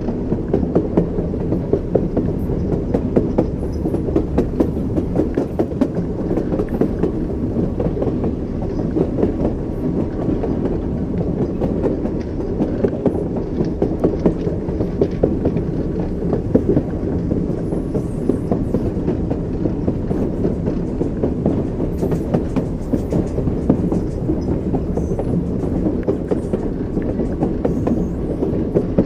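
Train wheels running over rail joints: a steady low rumble with a continuous clickety-clack of knocks.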